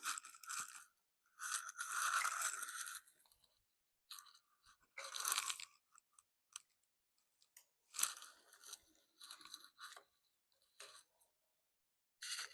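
Irregular scraping and clicking in short bursts, with quiet gaps between, as the handlebars and their clamp on a mini motorcycle are shifted and handled to line them up on the alignment pins.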